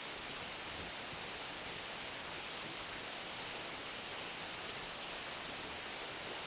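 Steady rain falling, a continuous even hiss with no separate drops standing out.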